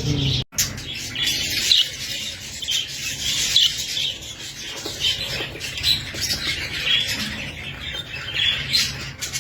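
Small parrots squawking and chirping, a run of short shrill calls every second or so. The sound drops out briefly about half a second in.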